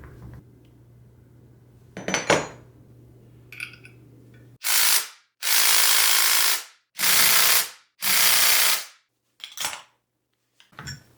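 A click, then four short blasts of hissing spray, each under about a second long, close together.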